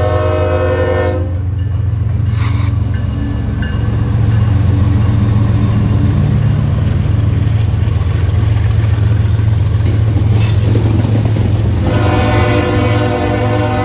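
Freight train locomotive's air horn sounding a chord that cuts off about a second in, over the steady low rumble of the passing train; the horn sounds again near the end.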